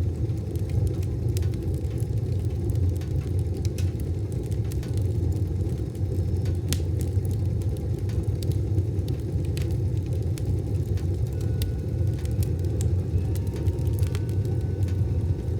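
Wood fire burning in a wood stove: a steady low rumble of flame with scattered sharp crackles and pops from the burning wood.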